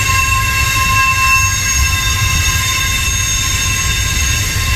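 Double-stack intermodal freight train rolling steadily past: a continuous low rumble of the well cars on the rails, with a steady high-pitched wheel squeal over it.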